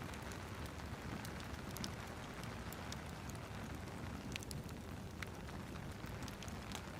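Fireplace crackling over steady rain: a low, even hiss and rumble of rain with scattered small pops and ticks from the burning wood.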